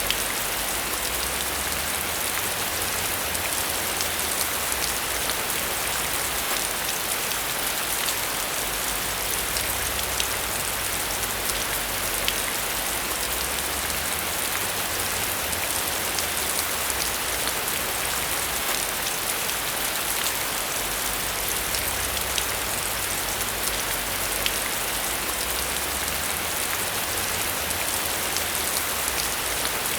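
Steady rain falling on a surface, with a constant hiss and scattered close drop ticks over a faint low rumble.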